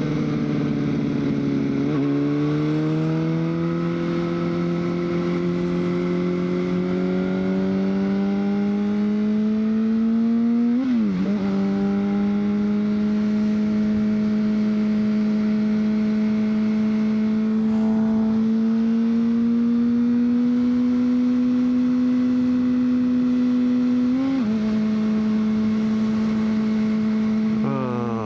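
2003 Honda CBR600RR's inline-four engine running under way. It climbs slowly in pitch, breaks sharply about eleven seconds in, holds an almost steady note for a long stretch, then drops in pitch near the end.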